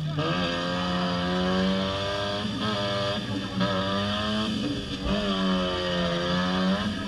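Demolition-derby car engines revving, their pitch rising and falling, over a steady low engine hum.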